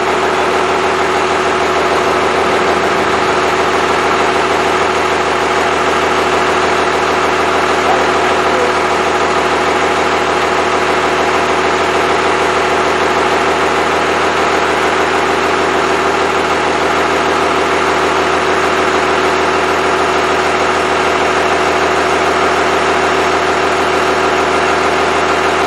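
Freshly rebuilt Cummins 5.9L 12-valve inline-six diesel idling steadily.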